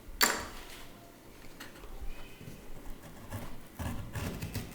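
Cardboard being cut and handled: irregular scraping, clicks and light knocks, with a sharp click just after the start and a denser run of knocks near the end.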